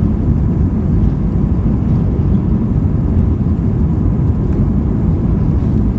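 Airbus A320 jet engines and airflow heard from inside the passenger cabin: a loud, steady, deep rumble with a faint steady whine above it.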